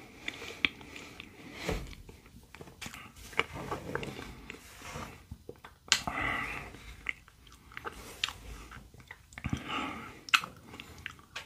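Close-miked chewing of strawberry shaved-ice bingsu, with wet mouth sounds and many small sharp crunches of shaved ice and fresh strawberry. About six seconds in, a wooden spoon digs into the shaved ice in the bowl.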